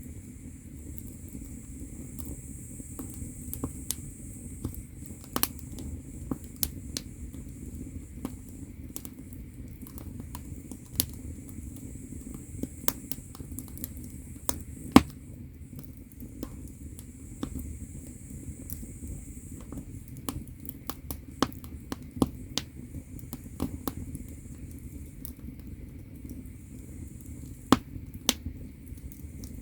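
Firewood burning in a traditional Korean agungi firebox: irregular sharp crackles and pops, the loudest about halfway through, over a steady low rumble of the fire.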